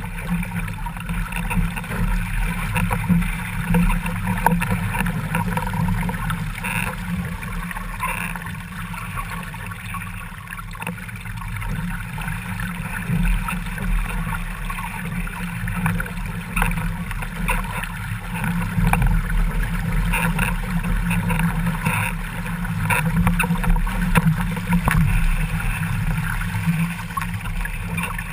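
Water rushing and splashing past a Laser sailing dinghy's hull and rudder under way, heard close at the rudder, with a steady low rumble and frequent short splashes.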